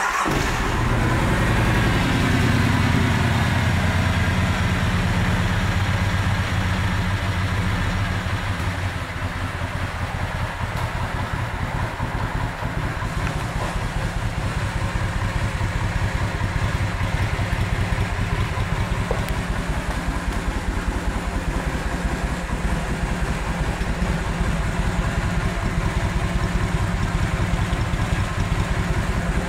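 Kawasaki Vulcan 2000's big V-twin engine running just after being started, settling within the first couple of seconds into a steady, loud idle with an even pulsing beat.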